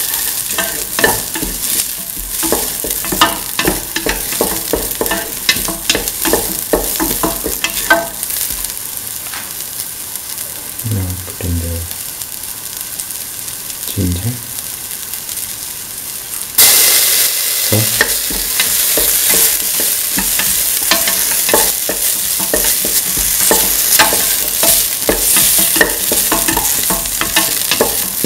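Chopped onion and shallots frying in oil in a steel pot, a spatula scraping and stirring them with many quick clicks against the metal. About halfway through the stirring pauses, a few dull knocks follow, and then the sizzle suddenly gets louder as sliced ginger goes into the hot oil, and the stirring starts again.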